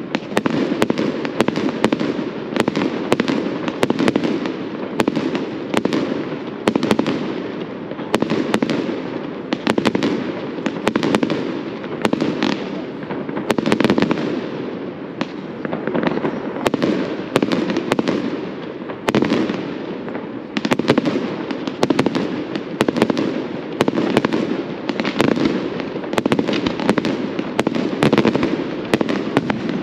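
Fireworks display in a continuous barrage: many sharp bangs and crackles, with a fresh loud burst every second or two over an unbroken rumble.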